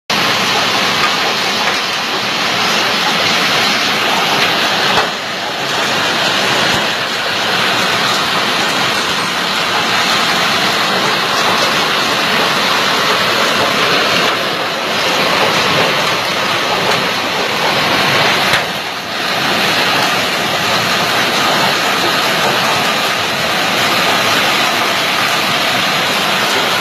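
Heavy hailstorm: a dense, steady clatter of hailstones pelting down, easing briefly about five seconds in and again about nineteen seconds in.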